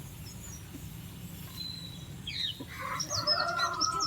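Small birds chirping in quick high notes, with a young goat's drawn-out bleat about three seconds in.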